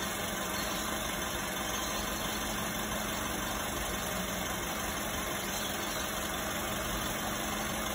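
Toyota Calya's engine idling steadily at about 700 rpm, warmed up to operating temperature, heard with the hood open.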